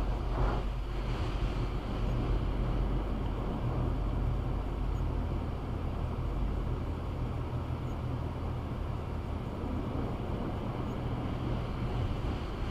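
Automatic car wash working over an SUV, heard from inside the cabin: a steady rush of spraying water and machinery over a low hum.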